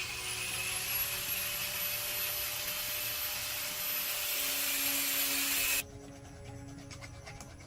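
A power tool running with a steady hiss and a high whine, starting suddenly and cutting off after about six seconds. Soft background music plays underneath.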